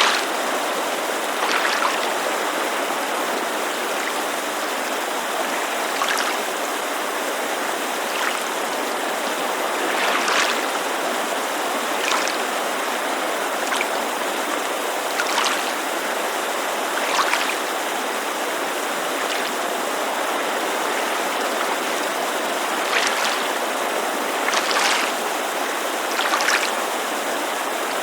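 Lake water lapping against the shore in small, irregular splashes, about a dozen of them, over the steady rush of a mountain creek.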